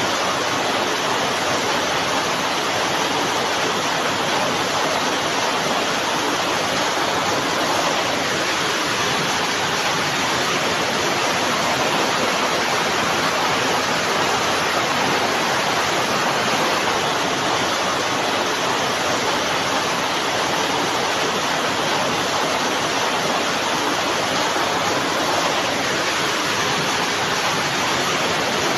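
Heavy rain falling steadily, an even, unbroken hiss with no single drops standing out.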